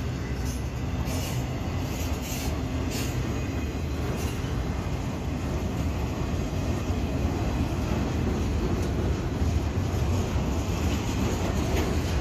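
Freight train of autorack cars rolling past close by, a steady low rumble and rattle of wheels and cars, with a few sharp clicks in the first few seconds.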